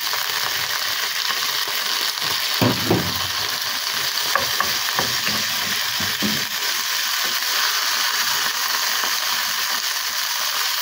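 Kangkong stems sizzling as they fry in hot oil in a frying pan, stirred with a wooden spoon that knocks against the pan a few times.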